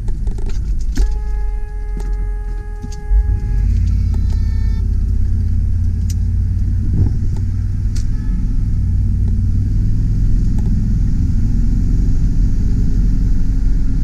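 GMC Sierra 3500 HD truck driving, heard from inside the cab: a steady low engine and road rumble that gets louder about three seconds in as it pulls harder. Early on a steady pitched tone sounds for about three seconds, followed by a brief higher tone, with a few light clicks.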